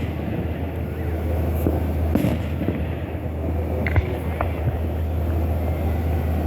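Fireworks bursting, a scatter of sharp separate pops over a steady low rumble.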